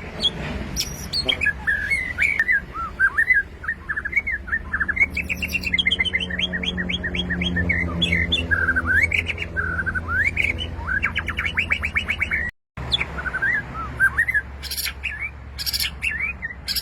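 White-rumped shama singing a varied song of whistled phrases mixed with quick runs of rapidly repeated notes, over a steady low hum.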